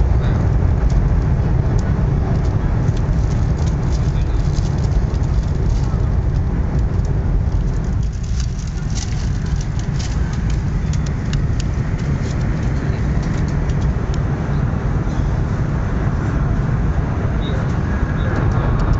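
Cabin noise of a CRH380A high-speed train running at speed: a steady low rumble with a rushing hiss over it and a scatter of faint ticks a few seconds in.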